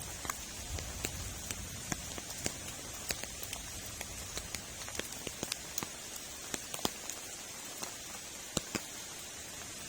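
Rain falling, a steady hiss with frequent sharp, irregular taps of drops striking a nearby surface.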